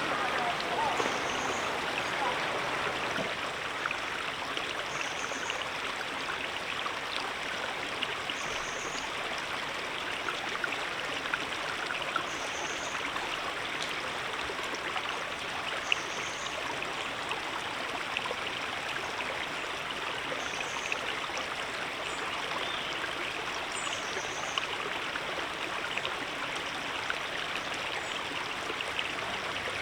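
River water flowing steadily. Faint short high chirps come back about every four seconds above it.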